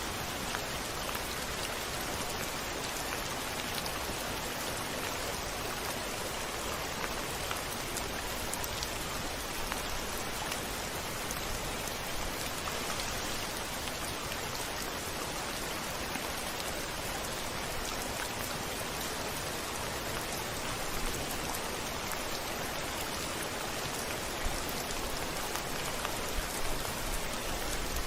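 Steady rain, with individual drops tapping a little louder now and then, most often near the end. No thunder is heard.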